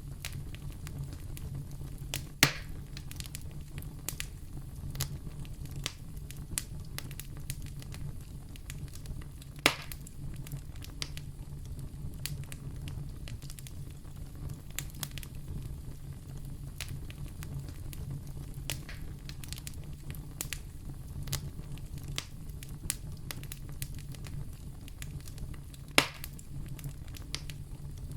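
Fire in a fireplace crackling, with many small snaps over a steady low rumble. Three louder pops stand out: one a couple of seconds in, one about ten seconds in, and one near the end.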